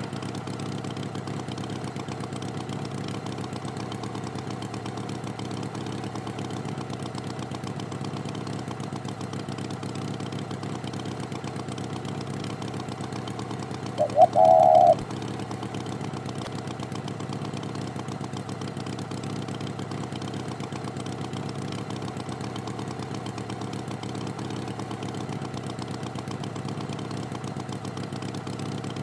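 Tractor engine sound effect idling steadily. About halfway through, a short loud horn-like honk sounds twice quickly, then once more, for about a second.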